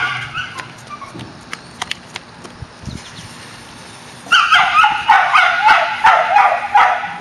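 A dog yipping and whining, briefly at the start and then in a run of repeated high cries from about four seconds in. Scattered sharp pops sound in between.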